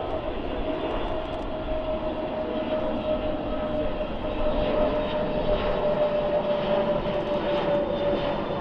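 Airbus A321neo XLR's CFM LEAP-1A turbofans during a slow, high-alpha display pass: a steady jet rumble with a single whine that sinks slightly in pitch.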